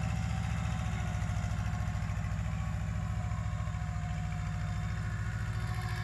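Kubota mini tractor's small diesel engine running steadily, with an even low chugging pulse.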